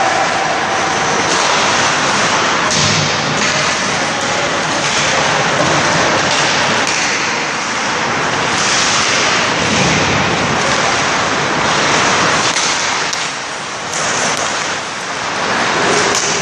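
Loud, steady wash of ice-rink noise during hockey play, with skates scraping the ice and a few sharp clicks.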